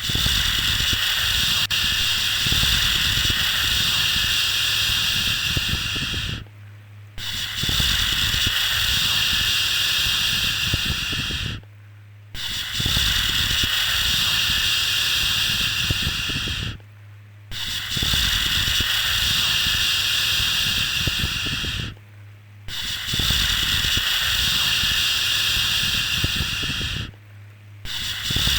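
Long 'shhh' shushing sound, each shush held about four and a half seconds, then a short pause, repeating about every five seconds, with a steady low hum underneath.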